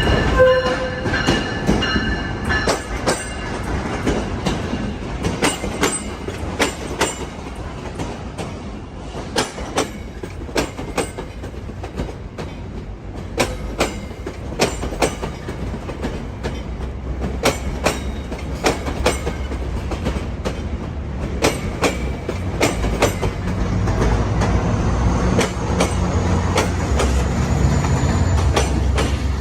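A train's cars rolling past, wheels clicking over rail joints in a steady stream, with a deeper rumble building near the end.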